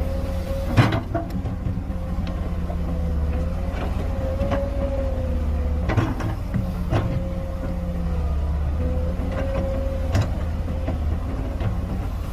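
Excavator engine running steadily with a wavering whine, and a few sharp knocks as the machine works; the loudest knock is about a second in.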